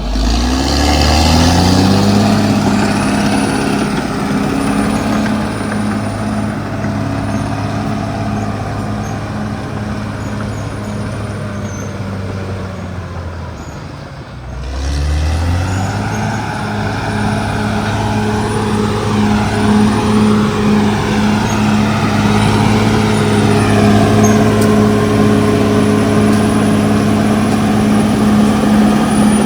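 CAT D6R XL bulldozer's diesel engine running hard: the engine note climbs over the first couple of seconds and holds. About halfway it sags and dips, then revs back up and runs steadily again.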